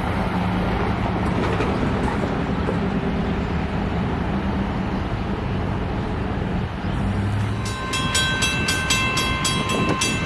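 Long Island Rail Road diesel train running through the station: a steady rumble of the cars with the low hum of the locomotive engine. About eight seconds in, a bell starts ringing rapidly, about four strokes a second.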